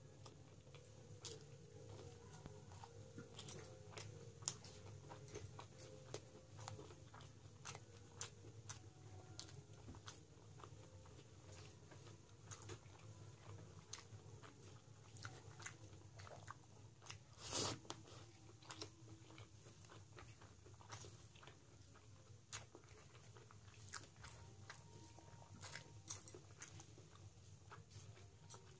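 Close-up eating sounds of a person chewing pilaf rice and mutton curry eaten by hand, with frequent short mouth clicks and smacks. One louder click comes about two-thirds of the way through, over a faint steady low hum.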